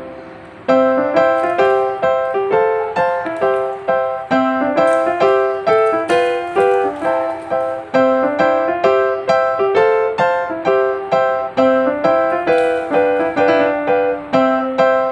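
Background music: a piano or keyboard playing a light, rhythmic melody of repeated struck notes, about three or four a second.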